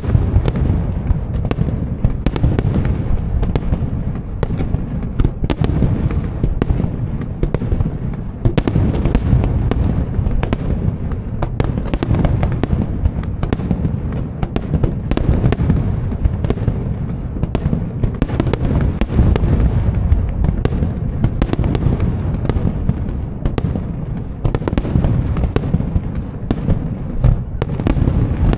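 Aerial fireworks going off in a continuous barrage: deep booms run together into a steady rumble, with many sharp cracks and pops on top.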